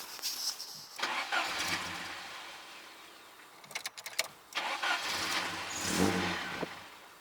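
Starter cranking a 1990s Mercedes engine in two attempts, about a second in and again about four and a half seconds in, without it staying running: the owner reckons the idle air control valve's flap has stuck closed again.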